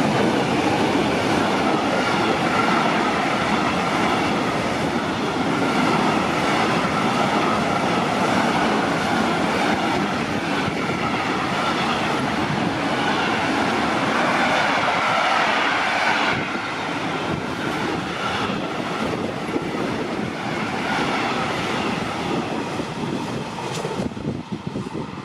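Train running past on the rails, wheel and track noise with wavering high tones above it. The noise eases somewhat about two-thirds of the way through and dies away near the end.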